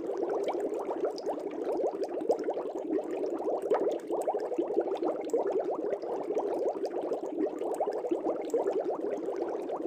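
Bubbles rising in an aquarium: a steady, dense stream of small bubbles burbling without a break.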